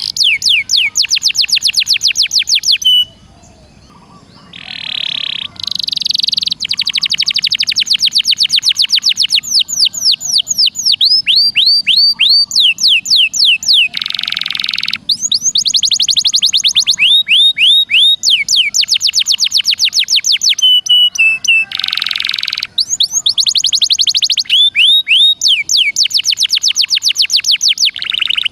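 Recorded songbird song arranged as a fast bird-training track: long trills of rapid repeated down-slurred whistles, about ten a second, broken every few seconds by short harsh buzzy notes.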